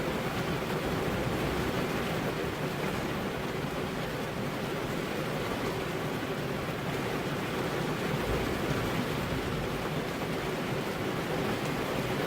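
Steady rain falling, an even unbroken hiss with no distinct drops or thunder.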